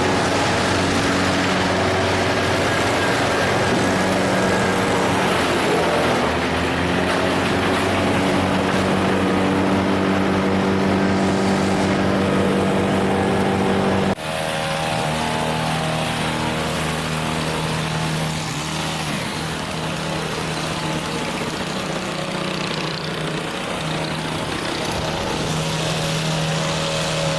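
A vehicle or machine engine running steadily, its pitch shifting a little, with a sudden drop to a lower, quieter engine note about fourteen seconds in.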